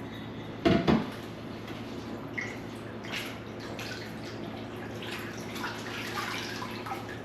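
Water splashing and dripping, with a loud double knock a little under a second in and a steady low hum underneath.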